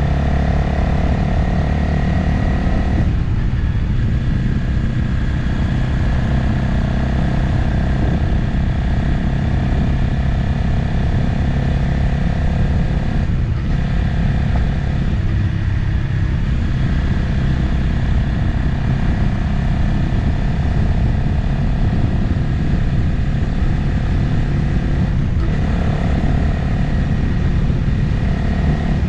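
Motorcycle engine running steadily while riding on the road. The engine note dips briefly and shifts in pitch three times, about 3, 13 and 25 seconds in.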